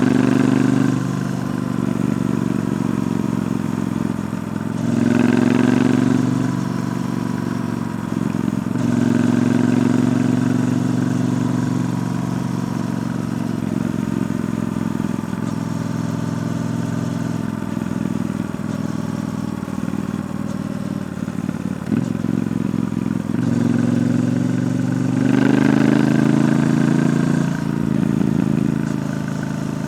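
Triumph Bonneville T120 parallel-twin engine through its stock exhaust while riding. It swells several times as the throttle opens, between stretches of steadier running.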